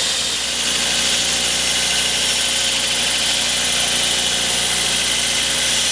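Brodbeck 2x72 belt grinder running steadily while grinding the bevels of a steel knife blade: a continuous high-pitched grinding hiss over the motor's hum.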